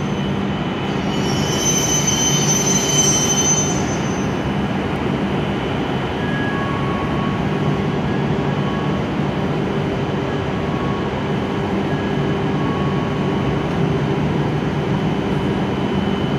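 W7 series Shinkansen train pulling slowly into the platform and drawing to a stop. A high squeal rings over the first few seconds and fades, leaving a steady rumble and hum as the train eases to a halt.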